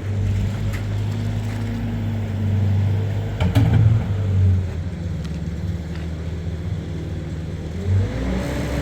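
An engine running steadily with a low hum, with a knock about three and a half seconds in. Its pitch rises near the end as it speeds up.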